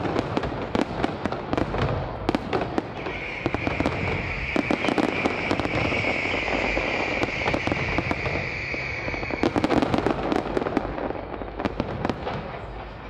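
Fireworks display: a continuous run of bangs and crackling pops. From about three seconds in a steady high whistling tone rides over them, cutting off suddenly after about six seconds.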